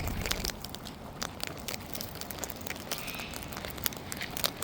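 Irregular small clicks and crackles, close by, of cockatoos' beaks and claws nibbling and shuffling.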